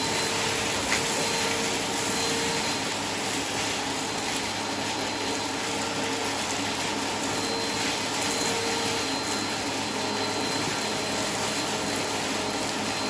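Vacuum cleaner running steadily, a constant whooshing rush with a motor hum and a few faint ticks.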